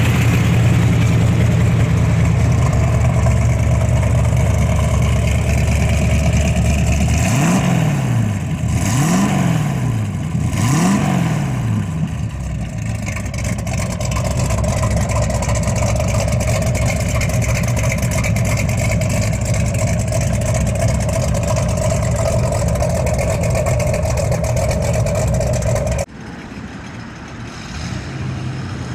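1969 Chevrolet Corvette's 427 big-block V8 running with a steady low rumble. A few seconds in, the engine speed rises and falls three times in quick succession, then settles back to steady running. Near the end the sound cuts abruptly to a quieter, steady engine note.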